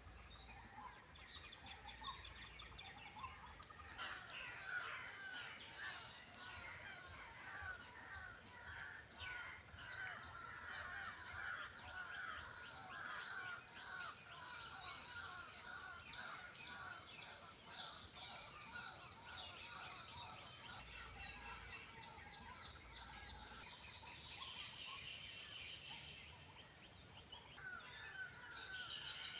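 Many birds chirping at once in a faint, busy chorus of short calls, thickening about four seconds in and thinning briefly near the end.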